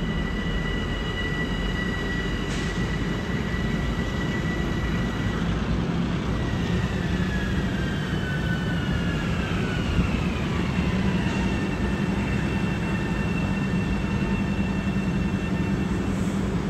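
LIRR laser train moving away along the track: a steady low rumble and hum with high thin whining tones, which slide down in pitch partway through and then level off.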